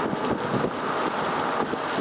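Wind blowing across the microphone: a steady rush of noise that rises and falls unevenly.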